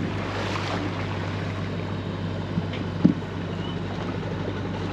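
Boat engine running steadily with a low, even hum, and a brief knock about three seconds in.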